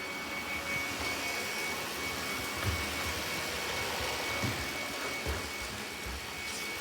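Robot vacuum running: a steady motor whirr with a thin high whine, and a few soft low knocks.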